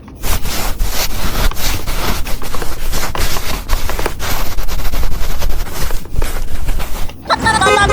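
Dense, rapid crackling and clicking of plastic being handled, as in unwrapping a toy from its packaging. It stops abruptly shortly before the end.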